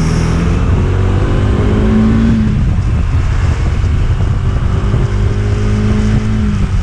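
Motorcycle engine running under way, its revs climbing twice and dropping back, over steady wind rumble on the microphone.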